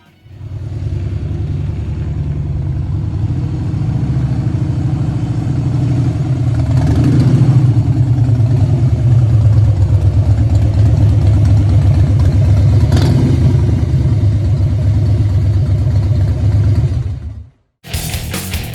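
Harley-Davidson Twin Cam 96 V-twin running through Bassani Turn-Out Street Pro exhausts, a deep pulsing exhaust note that gets louder with a rev about a third of the way in. It cuts off near the end, and music begins.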